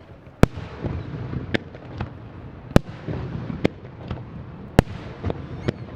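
Fireworks display: a rapid string of sharp bangs from bursting shells, about eight in six seconds, with a low rumble between them.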